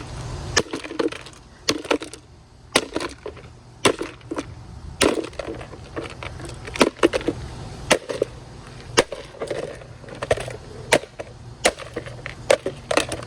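An iced coffee maker being smashed with repeated sharp blows, about two a second at an uneven pace.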